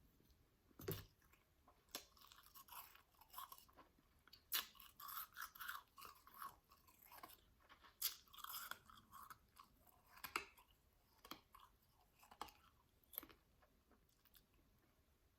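Close-miked chewing of soft, powdery shaved ice, with irregular crunches that come thick for most of the stretch and thin out toward the end.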